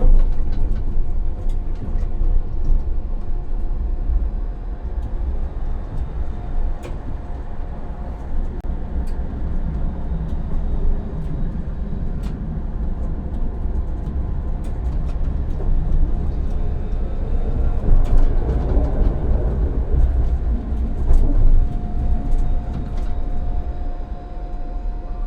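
Tram running along the rails, heard from the driver's cab: a steady low rumble with scattered clicks and knocks from the track. A steady whine fades in and out and returns near the end.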